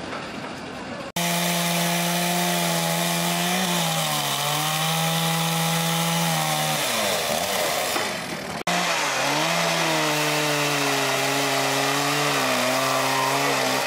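Chainsaw running at high revs, its pitch sagging and recovering as it works under load. It starts abruptly about a second in and drops out briefly two-thirds of the way through.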